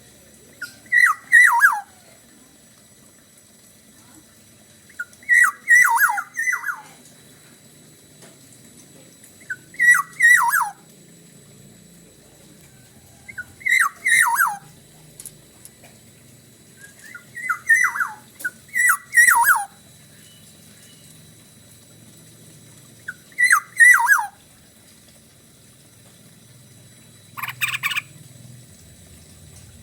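Black-naped oriole (kepodang) singing: short phrases of fluty whistles that fall in pitch, repeated about every four seconds, with one harsher, rasping call near the end.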